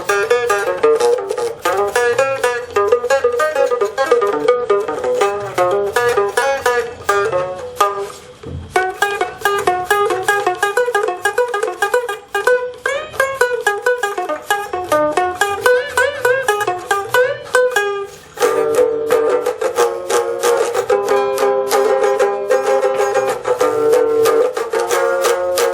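Homemade three-string box guitar playing a fast single-note solo in G minor pentatonic, with string bends and slides. About two-thirds of the way through it breaks into rapidly repeated picked notes.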